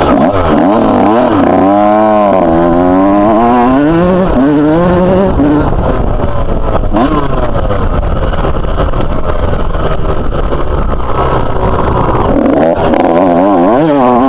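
Two-stroke motocross bike engine revving hard, its pitch climbing and dropping again and again in the first few seconds, holding steadier through the middle, then revving up and down again near the end.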